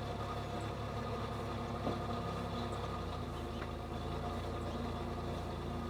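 2006 Chevy Impala police-package car's engine idling steadily just after being started.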